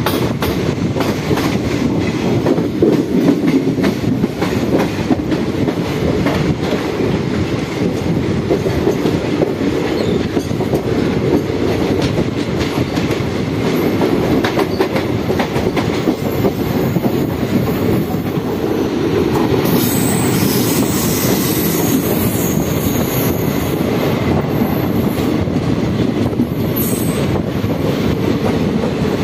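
Indian Railways passenger train running on the rails, heard from an open coach doorway: a steady rumble with rail-joint clicks. From about two-thirds of the way in, a high wheel squeal joins as another train passes close alongside.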